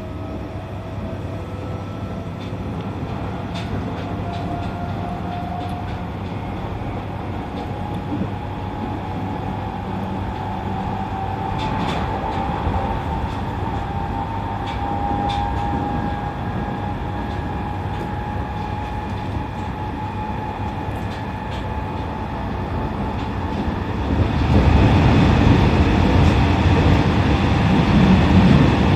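E501 series electric train running, heard from inside the car: steady wheel-on-rail rumble with the traction motors' whine drifting slowly in pitch. About 24 seconds in, the rumble becomes much louder and stays so.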